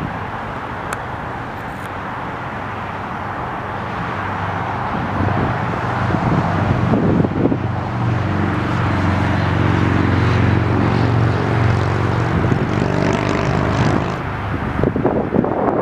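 Jet airliner passing low overhead, its engines' rumble and hum swelling over several seconds and easing off near the end. Gusts of wind buffet the microphone.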